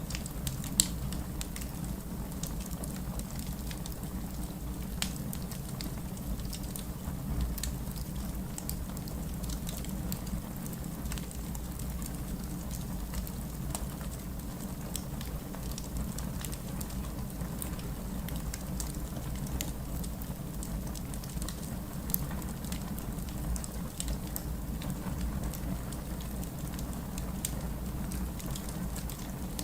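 Steady rain with a low rumble, mixed with a fireplace crackling in scattered sharp pops, the loudest about a second in.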